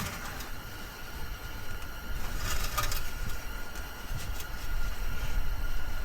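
Low steady rumble with a few light metallic clicks and scrapes about two and a half seconds in and again around four seconds in, as the engine oil dipstick is drawn out of its tube to check the oil after an engine flush.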